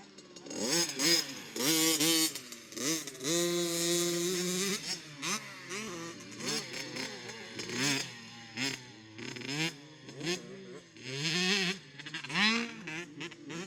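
Motocross bike engines revving hard on a dirt track, pitch climbing and dropping over and over as the riders accelerate, shift and back off over the jumps.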